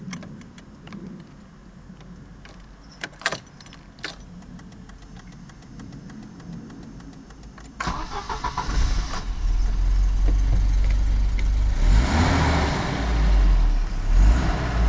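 A few sharp clicks, then about eight seconds in the Volvo 740 GL's 2-litre fuel-injected engine is cranked by the starter and catches. It settles into a steady low running note that swells for a moment a few seconds later.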